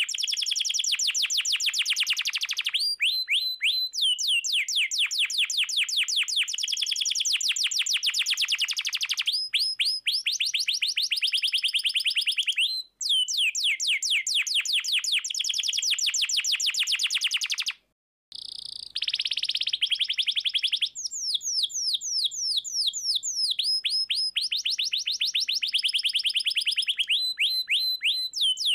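Domestic canary singing a long, fast rolling song: runs of quickly repeated sweeping notes, about ten a second, broken by short pauses and changes of phrase, with a brief break a little past the middle.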